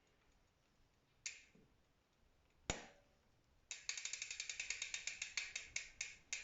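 Bicycle drivetrain with a SRAM GX Eagle cassette clicking: two single sharp clicks about a second and a half apart, then a rapid run of clicks, about ten a second, from the rear hub's freehub pawls ratcheting as the wheel freewheels.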